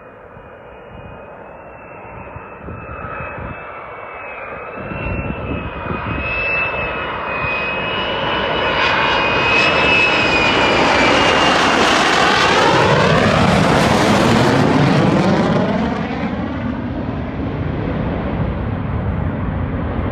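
F-35 Lightning II's single F135 turbofan jet engine growing steadily louder as the jet approaches to land, a high wavering whine over a broad rushing roar. It peaks about twelve to fifteen seconds in as the jet passes, then eases off a little.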